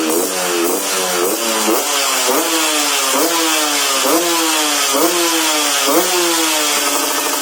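Yamaha RX King's two-stroke single-cylinder engine, breathing through a 'telo' racing exhaust, blipped about ten times in quick succession. Each rev rises sharply and falls back. It settles to a steady idle near the end.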